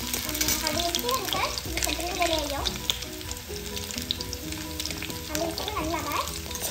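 Potato wedges sizzling in hot oil in a metal kadai, with a steel spatula scraping and clinking against the pan as they are turned. A song with singing plays underneath.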